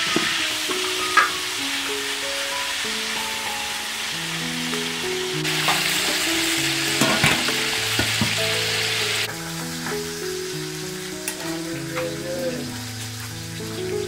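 Fish fillets sizzling as they fry in hot oil in a wok, loudest from about five seconds in and cutting off abruptly near nine seconds, after a softer cooking hiss. Background music with a simple melody plays throughout.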